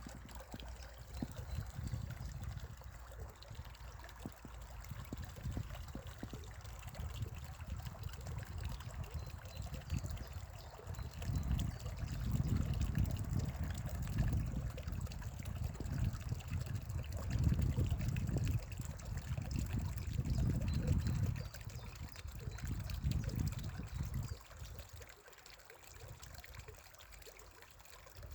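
Spring water trickling, with a low rumble that swells and fades several times, loudest in the middle.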